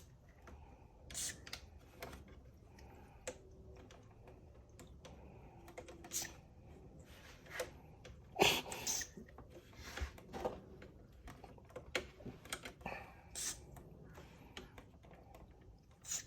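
Irregular light clicks and taps from handling the toy's plastic parts, with several short hisses of contact cleaner being sprayed into the volume pot to clean its scratchy contacts. The loudest hiss comes about eight seconds in.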